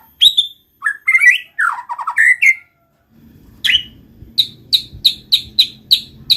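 White-rumped shama (murai batu) singing: quick, varied whistled phrases, a brief pause, then a run of short, sharp repeated notes about three a second. A low steady hum comes in about halfway through.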